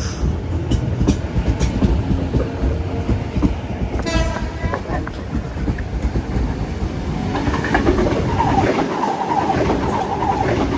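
Electric passenger train running through the station, its wheels clattering over the rail joints. A short high-pitched tone sounds about four seconds in.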